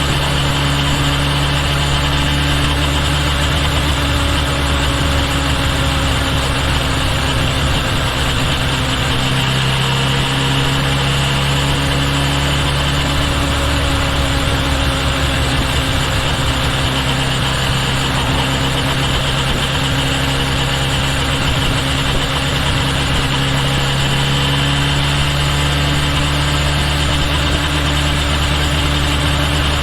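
Kawasaki Ninja H2 SX's supercharged inline-four motorcycle engine running steadily, with a small change in engine pitch about ten seconds in and again later on.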